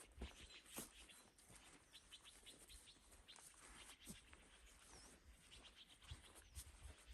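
Near silence: faint outdoor ambience with scattered soft ticks and a few faint bird chirps.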